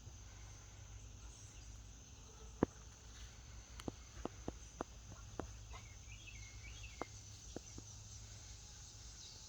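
Steady high chirring of insects in the background, with a scattering of sharp clicks and ticks from about two and a half seconds in, and a short warbling chirp just past the middle.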